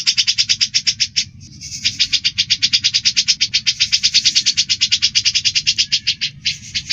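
Grey-cheeked bulbul (cucak jenggot) and Eurasian tree sparrow chattering at each other in a rapid, even stutter of high notes, about a dozen a second, breaking off briefly about a second in and again near the end.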